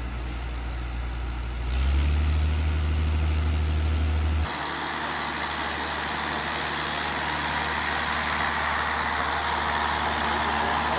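Heavy truck engine running, a steady low drone that gets louder about two seconds in. About four and a half seconds in it cuts abruptly to a different truck sound with much more hiss and rushing noise and a weaker drone.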